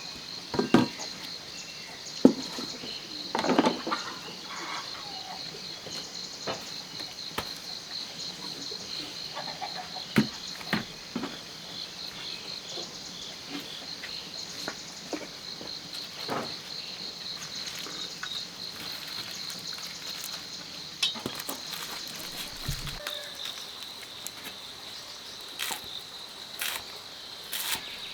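Insects trilling steadily in rapid, even pulses at a high pitch, with scattered clicks and knocks of handling over the top.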